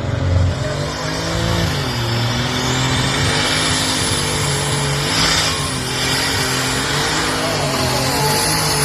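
Tractor-pull tractor's engine running at high revs, with a high-pitched whine that climbs about two seconds in and then holds.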